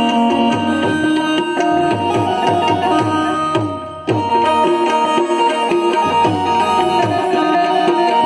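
Instrumental music with tabla drumming under steady held melody notes. It fades briefly about four seconds in, then cuts back in sharply.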